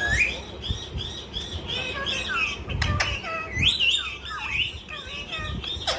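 Parrot talking and chattering: a fast run of short whistled calls that slide up and down in pitch, some of them speech-like, with a brief click about halfway through.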